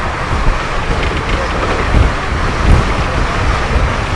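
Express passenger train running at speed: a steady rumble and rush of wheels on rail and air, with a couple of heavier low thumps around two to three seconds in.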